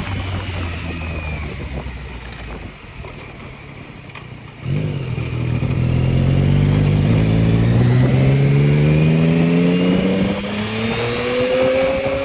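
Yamaha MT-09's inline-three engine running steadily, easing off for a couple of seconds, then about halfway through the throttle opens and the engine pulls hard, its pitch rising steadily as the revs climb.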